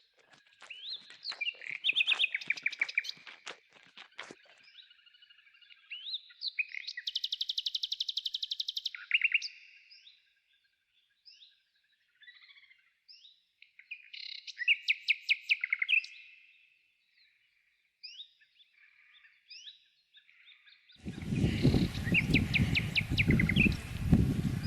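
Small songbirds singing, with short chirps and rapid trills of evenly repeated high notes, and a run of sharp clicks in the first few seconds. About 21 s in, a loud rough noise starts beneath the birdsong.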